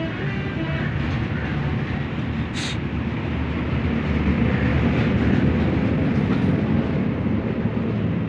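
Two-stroke Stihl chainsaw engine running steadily, a little louder for a couple of seconds in the middle, with one sharp click about two and a half seconds in.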